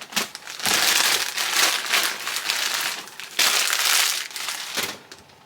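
Plastic crinkling and rustling in several loud bouts of handling, as groceries are unpacked, dying away near the end.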